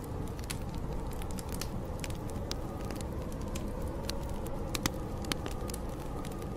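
Wood fire crackling with many small pops, and two sharper pops about five seconds in, over a steady low rush of storm wind with a faint howl that rises and falls.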